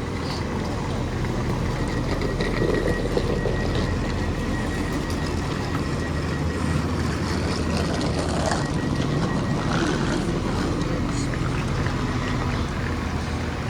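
Class 390 Pendolino electric train standing at the platform, its onboard equipment giving a steady low hum with a faint high whine.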